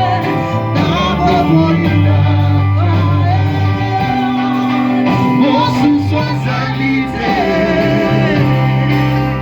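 Church worship music: singing over a band accompaniment, with long held bass notes underneath.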